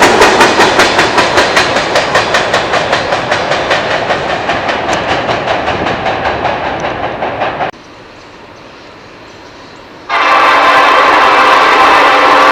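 Freight train wheels clacking rhythmically over rail joints, several clacks a second, fading away as the cars roll past; the sound cuts off suddenly about seven and a half seconds in. About ten seconds in, a locomotive horn starts and holds one loud steady chord.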